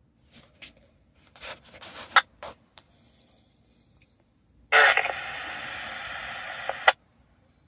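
Scanner radio between messages: a few short crackles of broken transmission, then about five seconds in a two-second burst of open-channel hiss that cuts off with a squelch click.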